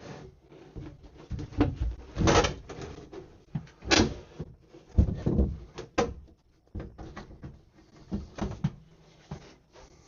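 Irregular knocks, thuds and scrapes of building work in a small room, with two sharp bangs in the middle and a longer scrape before them, as wall debris or a bathtub is handled and moved.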